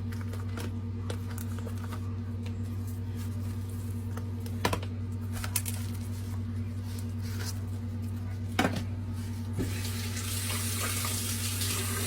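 Kitchen tap turned on about ten seconds in, water running into the sink, after a few separate knocks and clinks. A steady low hum runs underneath.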